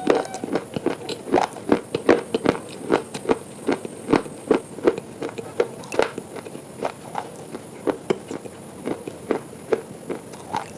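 Close-up crunching of something hard and crisp being chewed: a string of sharp, irregular crunches, about two to three a second.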